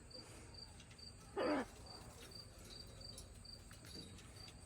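Crickets chirping steadily, about two chirps a second. About a second and a half in comes one short vocal sound that falls in pitch.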